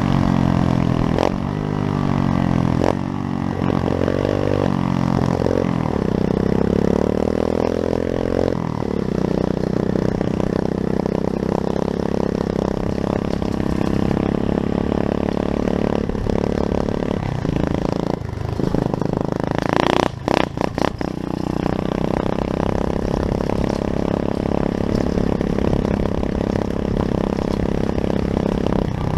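Pit bike engine running and revving, its pitch rising and falling over and over for the first several seconds, then holding fairly steady. A quick run of clattering knocks comes about twenty seconds in.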